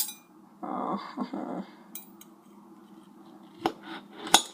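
Knife clinking and scraping on a dish while a small mushroom is cut up: a clink at the start, a short scrape about a second in, and two sharp clicks near the end.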